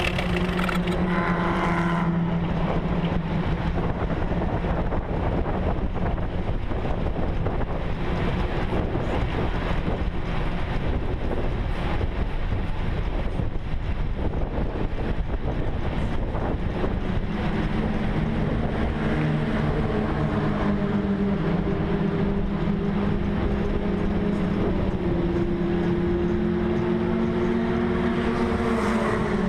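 Formula Ford racing car's engine running, heard onboard through heavy wind noise. From about 17 seconds in, the engine note steadies and stands out more clearly.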